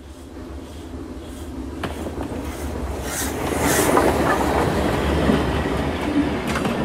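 A train running on track, growing louder over the first four seconds or so and then holding steady, with a few sharp clicks along the way.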